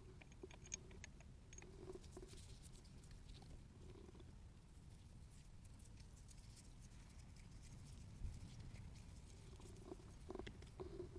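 Near silence with faint, scattered clicks and taps of small engine parts being handled.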